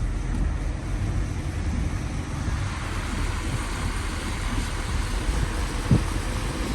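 A vehicle driving, heard from inside the cabin: a steady low engine and road rumble with a hiss over it, and a single thump near the end.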